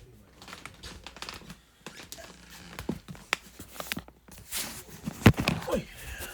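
Crinkling and clattering as the sandwich and its wrapper are handled for microwaving, with scattered light clicks and a sharp knock a little over five seconds in.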